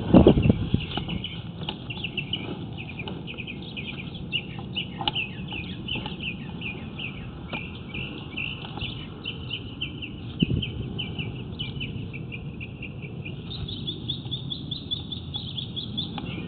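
Small birds chirping and singing continuously in quick, irregular short notes, over a low steady background rumble. A sharp thump comes right at the start, and a smaller one about ten seconds in.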